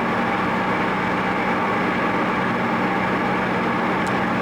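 Car engine running at a steady cruise with tyre and road noise, heard from inside the cabin while driving.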